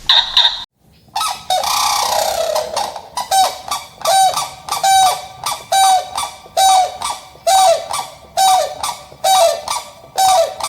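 Goose honking over and over in a regular series, about a dozen loud calls roughly one to two a second, each dropping in pitch at its end.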